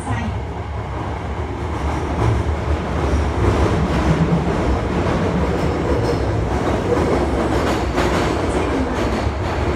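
Hankyu 1300 series electric train running through a subway tunnel, heard from inside the passenger car: a steady rumble of wheels on rail with occasional clacks, growing a little louder about two seconds in.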